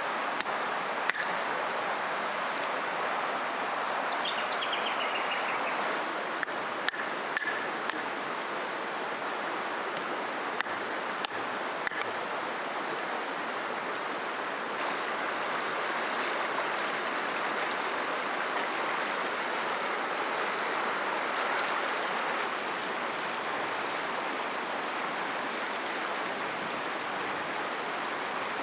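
River water flowing steadily, with a few sharp clicks here and there and a brief falling call about four seconds in.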